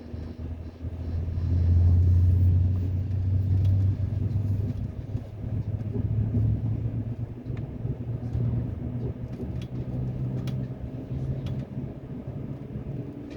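Train rumbling past at close range, a steady low drone that swells about two seconds in, with a few faint clicks.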